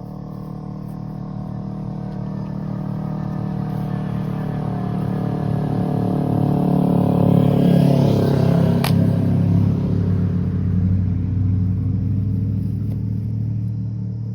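Motorcycle passing on the road: its engine note grows steadily louder to a peak about eight seconds in, then fades as it rides away.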